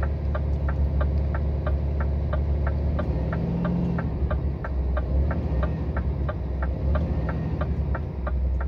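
Scania truck's diesel engine running at low revs under load, heard from inside the cab as a steady low drone while the truck creeps up an icy grade with its wheels slipping. A light regular ticking, about four times a second, runs over it.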